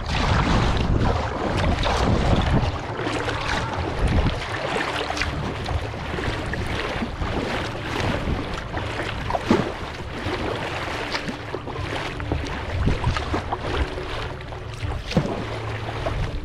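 Water splashing and lapping around a kayak as it is paddled, with wind buffeting the microphone. A faint steady low hum joins in during the second half.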